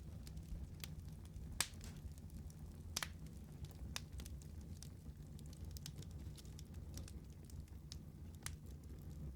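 Wood fire crackling: scattered sharp pops and snaps over a low steady rumble, the loudest pops about one and a half and three seconds in.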